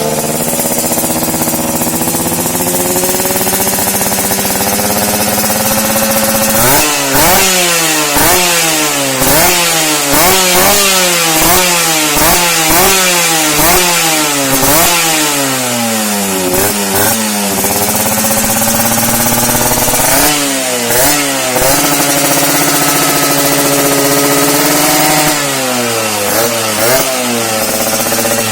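Yamaha RX-King two-stroke single-cylinder motorcycle engine running through an aftermarket exhaust: it idles steadily, then is blipped in a quick series of revs about once a second, drops back to idle, and is revved in short bursts twice more.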